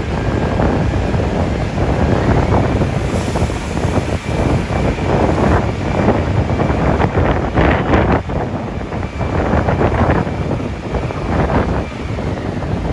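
Gusty high wind buffeting the microphone, rising and falling unevenly, over steady vehicle engine noise.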